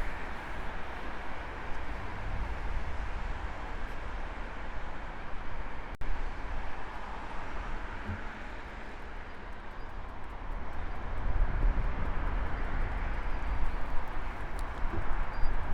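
City street traffic heard from a bicycle-mounted action camera while riding: a steady hiss of road noise under a low wind rumble on the microphone, which grows louder in the second half. A single sharp click comes about six seconds in.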